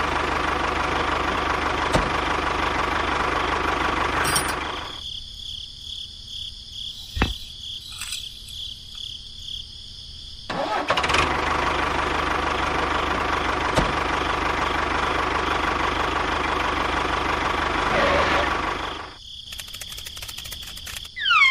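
Steady engine running sound for a miniature model tractor, in two stretches that start and stop abruptly: the first cuts off about four and a half seconds in, the second starts about ten and a half seconds in and stops near the end. A short falling whistle comes just at the close.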